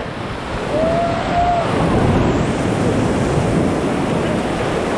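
Whitewater rushing and crashing around an inflatable raft as it runs a rapid, a steady loud wash of water noise. A faint voice calls out briefly about a second in.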